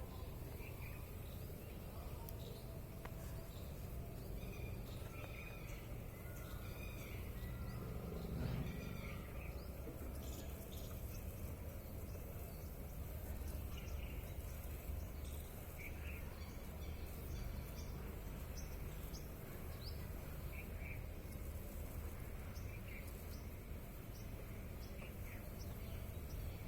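Small birds chirping: short, scattered calls over a steady low background hum of noise, with one dull thump about eight seconds in.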